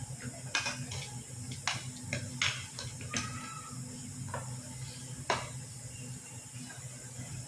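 Scattered light clinks and knocks of metal utensils against dishes or cookware, the sharpest about five seconds in, over a steady low hum.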